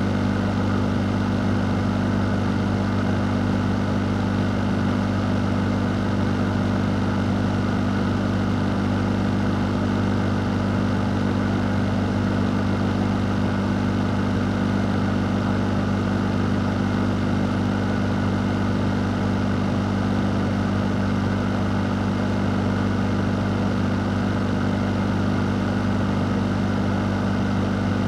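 Fan running steadily: an even rush of moving air over a constant low hum, with no change in speed or pitch.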